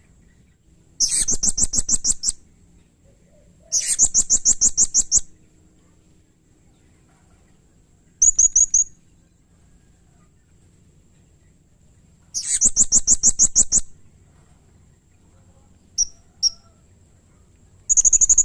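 Blue-crowned hanging parrot (serindit) calling: high, rapid trilled chatters of about a second and a half each, separated by pauses of a few seconds. There are three long trills, one short one, then two brief chips, and a last trill begins at the very end.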